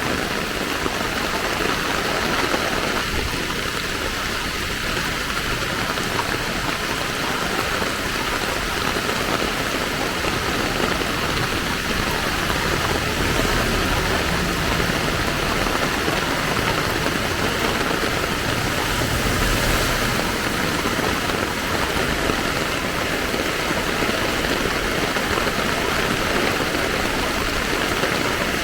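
Steady rain falling, an even hiss, with vehicle engines running underneath; a low rumble swells briefly twice, about a third of the way in and again past the middle.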